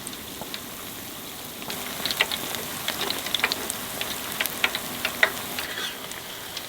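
Shrimp deep-frying in hot oil: a steady sizzle with scattered crackling pops, busier from about two seconds in.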